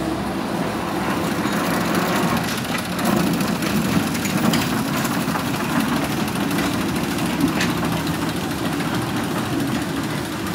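Small narrow-gauge railway locomotive's engine running steadily as its train of carriages passes, with a few sharp clicks.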